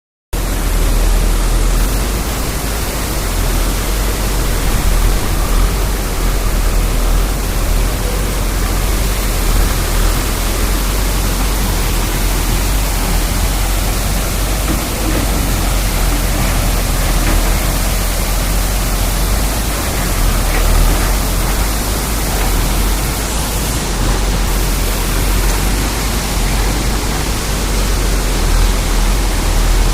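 Heavy rain pouring down: a loud, steady hiss with a low rumble underneath.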